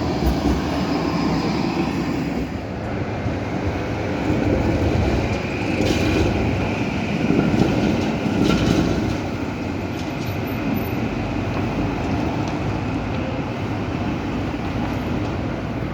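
Tram running on its rails: a steady rumble with a few sharp wheel clicks about six and eight seconds in, loudest around eight seconds.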